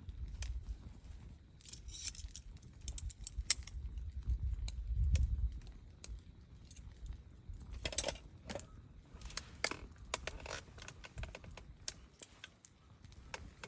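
Light clinks, clicks and rattles of small hard objects being handled, with a low rumble under the first half.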